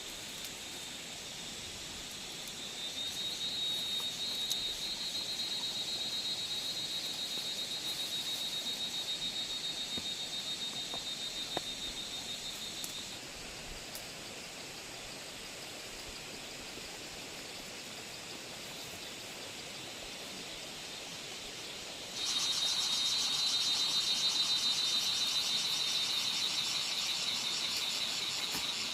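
Insects trilling: a steady, high-pitched, fast-pulsing buzz over a faint hiss. It fades in about three seconds in, stops around thirteen seconds, then comes back abruptly and louder about twenty-two seconds in.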